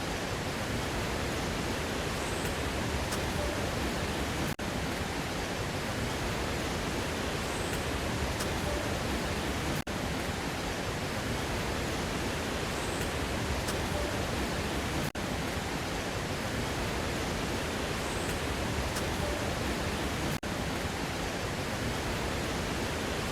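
Waterfall's rushing water: a steady, full hiss. It dips briefly about every five seconds, as if a short stretch of the recording repeats.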